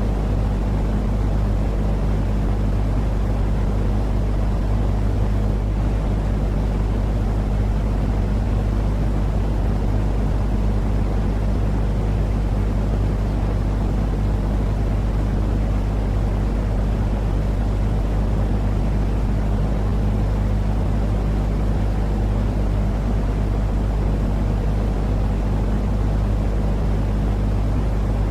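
Steady, unchanging deep noise of a white-noise sleep track for babies, heavy in the bass with a low hum running through it and little hiss.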